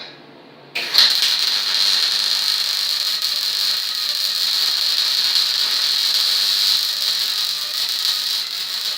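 MIG welder arc starting about a second in and burning steadily, a continuous crackling sizzle of the wire feeding into the weld pool on steel.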